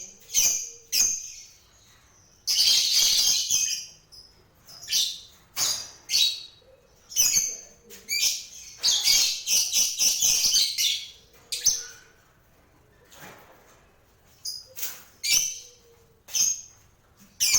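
Lovebirds calling in short, shrill, high-pitched chirps, with two longer bouts of rapid chattering, one a few seconds in and one around the middle.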